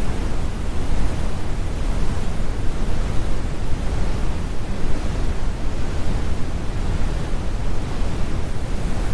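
Synthetic brown noise: a steady, deep rumbling hiss, strongest in the low end, with the harsh highs removed.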